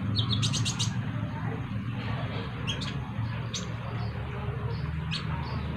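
Sunbirds chirping: a quick run of high, sharp notes about half a second in, then single short chirps spaced out through the rest, over a steady low hum.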